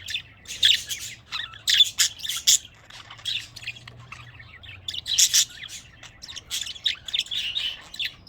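Budgies chirping and warbling: quick runs of high chirps and squawks, with a quieter spell about halfway through.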